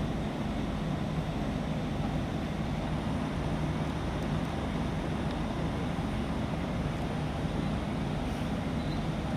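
A large engine running steadily: a low, even drone with a hum that does not change.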